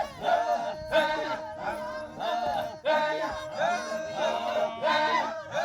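A group of voices singing together in a rhythmic chant, the sound swelling and easing in repeated pulses.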